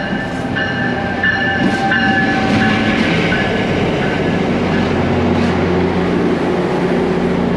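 Commuter train running, heard from on board: a steady low hum and a rumble that grows stronger from about two seconds in. For the first few seconds a high electronic beep repeats about every half second, then fades out.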